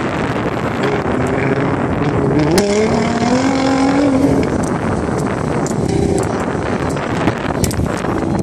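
Nissan GT-R's twin-turbo V6 accelerating through an autocross cone course, its engine note rising about two seconds in and then easing off as the car pulls away, over a steady noisy background.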